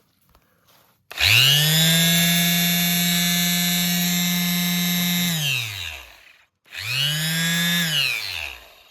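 Bosch GSS 23 AE orbital finishing sander switched on twice, each time as a test run of a freshly fitted sanding sheet. The first time its motor whirs up quickly, runs steadily for about four seconds, then winds down with falling pitch. About half a second later comes a shorter second run that also winds down.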